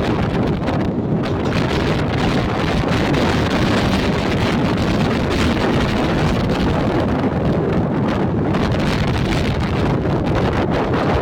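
Steady rush of a moving train's running noise mixed with wind buffeting the microphone.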